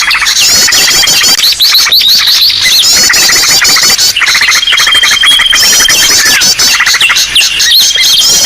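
Bird-lure recording of many small birds calling at once in a loud, dense commotion: fast high chirps and trills, sweeping notes and a thin held whistle, with the phrases repeating over and over.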